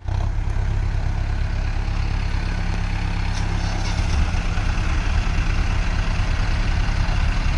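Mahindra Arjun Novo tractor's diesel engine running steadily, a little louder from about halfway through.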